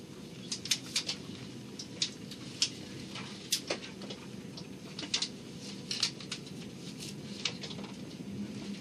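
Steady low rumble of a passenger train running, heard from inside the carriage, with irregular sharp ticks and clicks scattered over it, about fifteen in all.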